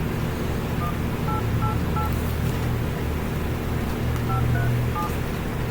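Phone keypad touch-tones as a number is dialed: seven short beeps, four quick ones then a pause and three more, over a steady low hum.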